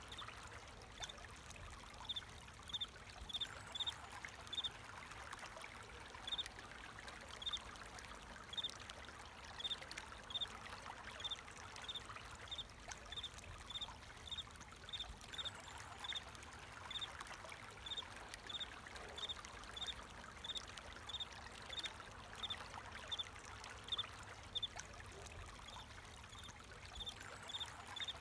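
A cricket chirping in short, regular chirps, about one and a half a second, over the steady trickle of flowing water.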